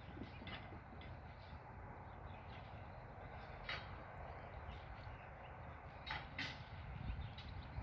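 Crane truck's engine running low and steady at a distance, with a few brief sharp clicks over it about four and six seconds in.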